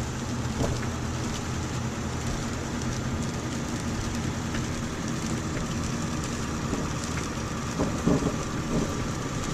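Steady engine hum and tyre and road noise of a car driving, heard from inside the car, with a few brief knocks about eight seconds in.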